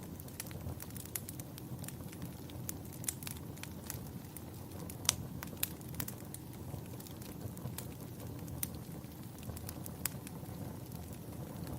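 Campfire burning with a steady low rumble and frequent irregular crackles and pops of burning wood, the sharpest pop about five seconds in.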